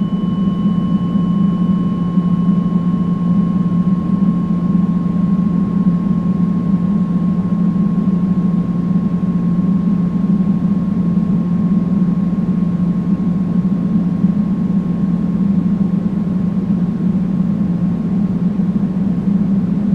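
Steady generated pink noise, an even rushing hiss weighted toward a low hum, with a faint steady whistle-like tone above it and a higher one that fades out in the first few seconds.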